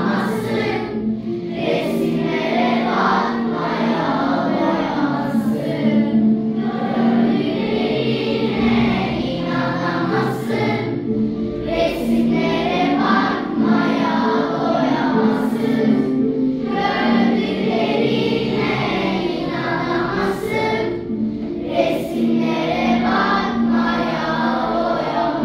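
A fourth-grade class of children singing a song together as a choir.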